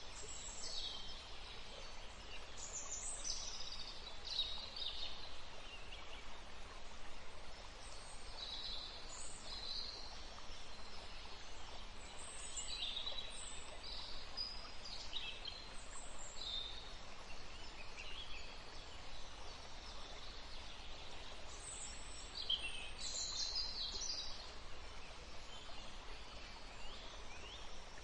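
Songbirds singing, short high chirping phrases coming every second or two from more than one bird, over a steady low background hiss.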